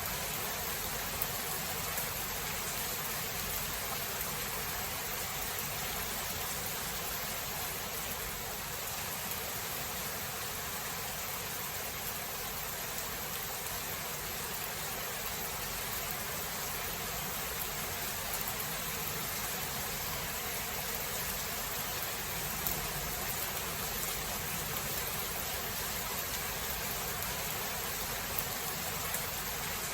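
Steady heavy rain, an even hiss with a few faint drop ticks scattered through it.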